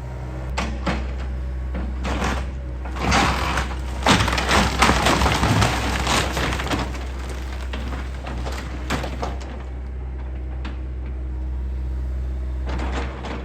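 A house's wooden frame cracking and splintering with heavy knocks as a John Deere excavator tears it down, over the excavator's steadily running diesel engine. The breaking is densest a few seconds in and dies away after about nine seconds.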